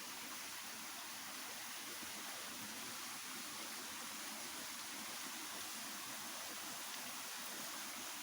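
Running water, a steady, even rush with no change.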